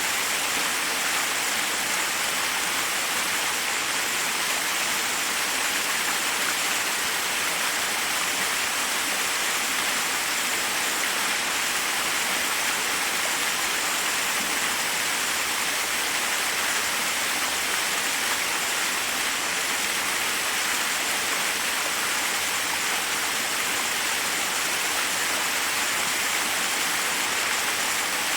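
Waterfall: water falling steadily onto rocks, an even, unbroken rushing hiss.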